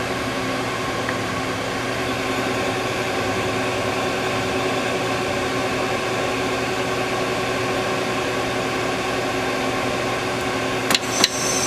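Steady hum of a powered-up Citizen CNC Swiss-type lathe, with several steady tones. Near the end, two sharp clicks and a brief high whine.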